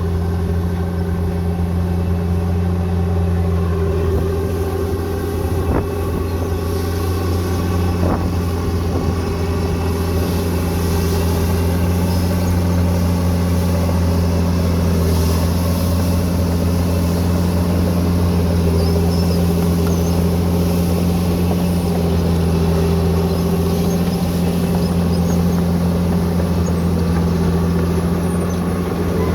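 Bulldozer's heavy diesel engine running steadily at constant revs, with a couple of light knocks about six and eight seconds in.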